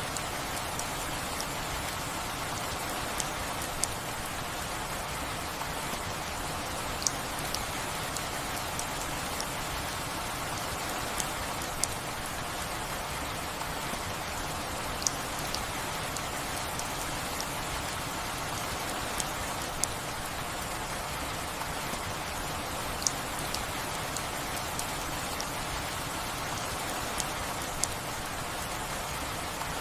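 Steady rainfall, with occasional sharp drips or drop impacts standing out every few seconds.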